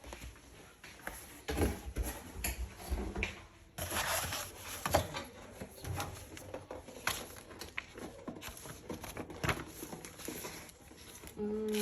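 Handling noises: scattered light clicks and knocks, with a longer rustling stretch about four seconds in.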